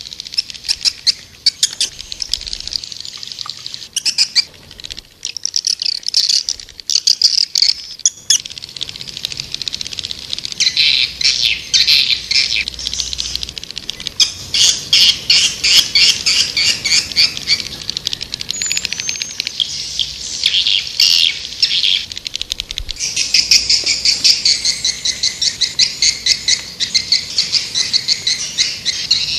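Swiftlet lure call: swiftlets twittering in fast, dense trains of high chirps, growing denser about a third of the way in. It is a call recording meant to draw swiftlets into a nesting house.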